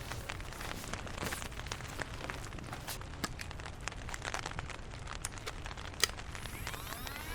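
Rain falling, with single drops ticking irregularly close by over a low steady rumble; one sharper tick about six seconds in.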